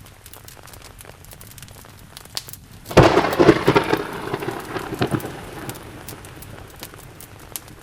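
Steady rain with scattered sharp clicks. About three seconds in, a sudden loud thunderclap breaks in and rumbles away over the next few seconds.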